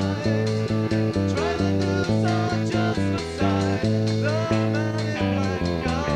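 A small band playing live, a guitar-led slow number over a steady bass line, recorded roughly in a cellar rehearsal room.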